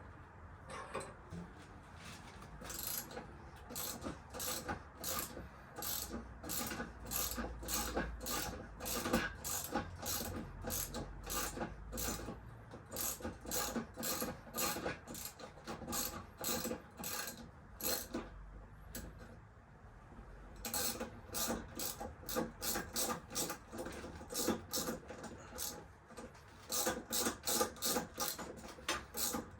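A hand tool worked in quick, regular back-and-forth strokes, about two to three a second, with a few short pauses.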